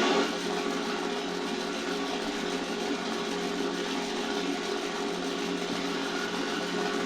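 The 1/18 scale Spitfire model's built-in sound effects playing a steady aircraft-engine drone through a small speaker, mixed with the whir of the model's motors running its flight sequence. It dips slightly in level just after the start, then holds even.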